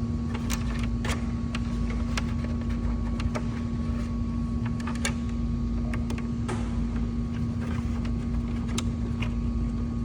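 Steady low mechanical hum, with scattered light clicks and taps from parts being handled and fitted by hand.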